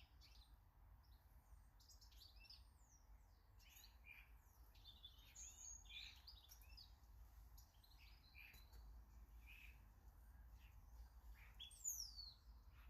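Faint calls and chirps from several small garden birds, overlapping throughout, with one falling whistle near the end, the loudest call.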